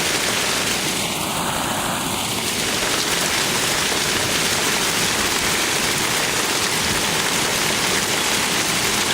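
Heavy hail falling in a steady, dense rush of impacts on the ground and yard.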